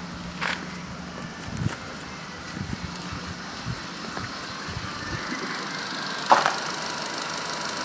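Nissan HR16DE 1.6-litre four-cylinder petrol engine idling steadily, with scattered light knocks and one sharp click about six seconds in.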